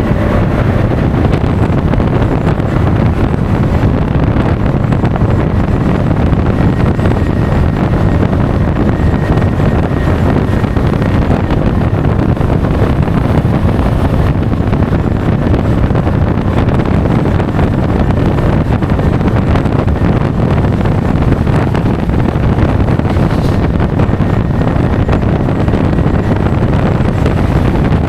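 Steady wind noise buffeting an action camera's microphone while riding a Honda Forza 350 scooter at speed, with the scooter's engine and road noise beneath it.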